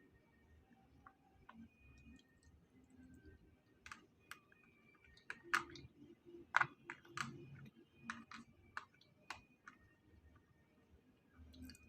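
Irregular light clicks and taps of eating utensils against food containers, the sharpest strikes around the middle.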